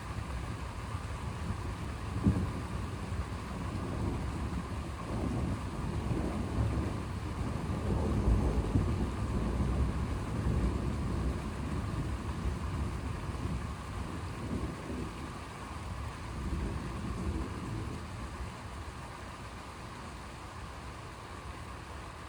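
Rolling thunder rumbling over steady rain, swelling about a third of the way in and fading away near the end.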